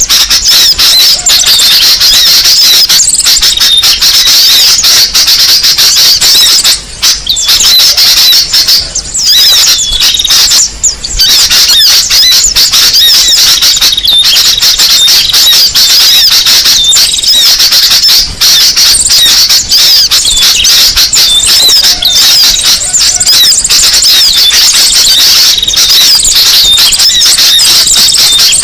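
Bird-lure recording of small songbirds calling in a dense, excited chorus: rapid high-pitched chirps and squeaks overlapping without pause, loud throughout, with a few brief dips in the chatter around a third of the way in.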